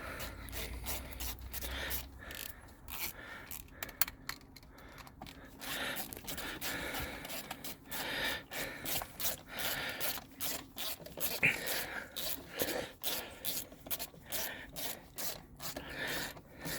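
Ratchet and socket on an extension clicking and scraping in irregular bursts while the thermostat housing's 10 mm bolts are run back in on a GM 3800 engine.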